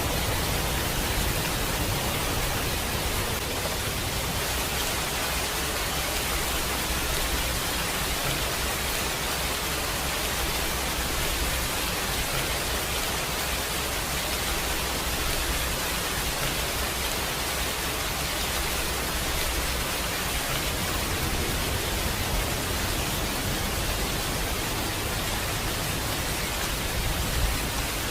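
Steady rain, a dense even hiss of many drops, with a low rumble underneath that fades for a while and comes back.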